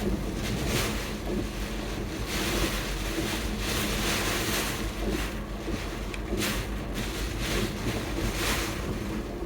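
Steady rushing noise of wind and water that swells and eases every second or so, over a low steady hum.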